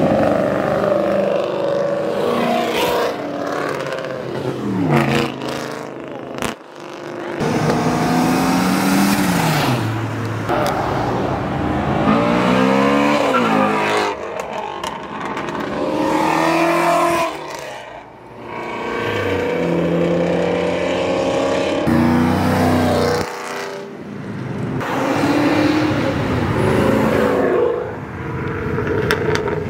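Car engines accelerating hard past one after another. Each revs up, drops back as it shifts or passes, then the next one comes through.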